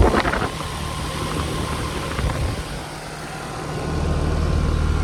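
2002 Ruud Achiever X 3.5-ton heat pump running steadily in cooling mode: the hum of its remanufactured Copeland scroll compressor under the whoosh of the outdoor condenser fan. The low hum grows stronger about four seconds in. It is running smoothly.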